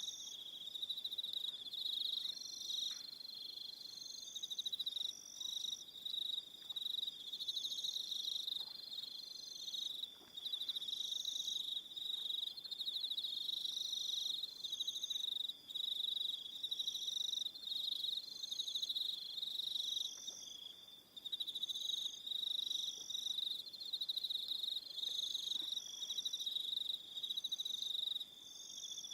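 Evening chorus of crickets: a dense, steady high-pitched trill, with shorter high chirps repeating over it every second or so.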